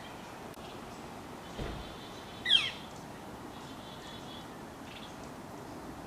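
A bird gives one short, high call about two and a half seconds in, sliding sharply down in pitch, with a few fainter chirps after it.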